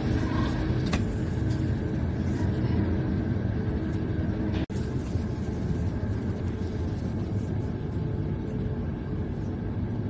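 Steady low rumble of a moving passenger train heard from inside the carriage. The sound cuts out for an instant about halfway through.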